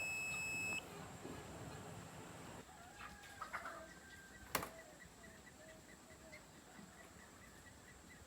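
Chickens clucking faintly in short, wavering calls. A steady high-pitched beep sounds for about the first second, and there is a single sharp click about four and a half seconds in.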